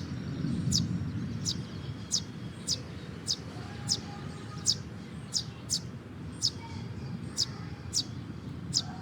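A small bird chirping repeatedly: short, high, sharp chirps about one and a half times a second, over a low steady background rumble.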